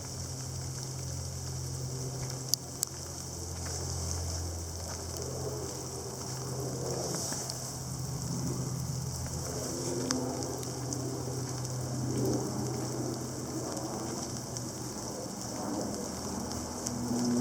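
Sleet falling steadily, ice pellets hissing and pattering on surfaces, with a few sharper clicks of single pellets striking.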